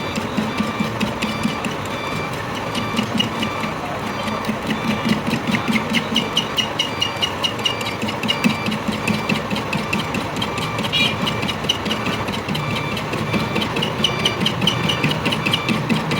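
Lathe turning a heavy truck axle, its geared drive running with a steady, fast rhythmic clatter.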